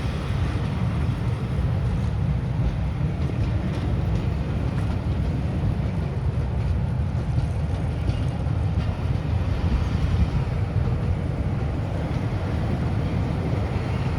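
A train running past with a steady low rumble, no whistle sounding.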